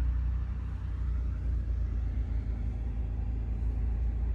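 An engine running steadily with a deep, even low rumble.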